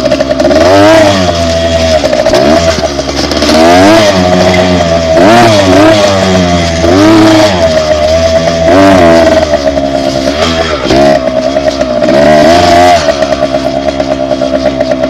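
Dirt bike engine being ridden, its pitch rising and falling again and again as the throttle is opened and closed. It settles into a steadier note near the end.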